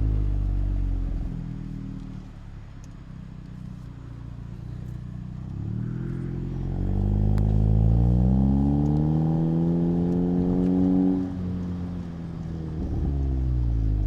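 Exhaust note of a 2019 Volkswagen Jetta GLI's turbocharged 2.0-litre four-cylinder through a Neuspeed stainless-steel cat-back exhaust, heard close to the tailpipe. The engine eases off, then pulls with a steadily rising pitch for about five seconds before dropping suddenly about eleven seconds in, and then runs lower.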